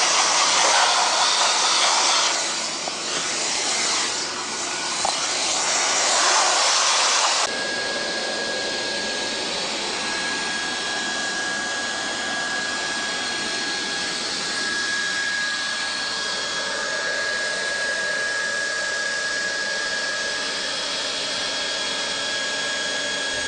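Hand-held Triac hot-air plastic welder blowing, a steady hiss of fan and hot air. About seven seconds in it cuts abruptly to a quieter, even hiss with a thin steady whistle.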